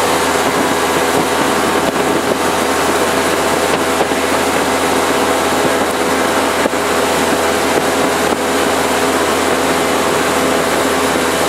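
Jet boat running steadily under way: a constant engine drone blended with the rush of water, holding at one level without revving up or down.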